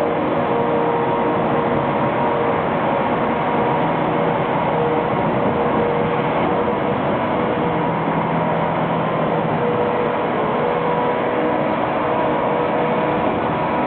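Tractor sweeping up dirt on concrete: its engine and sweeper attachment run steadily as one constant mechanical drone, with a faint hum of steady tones.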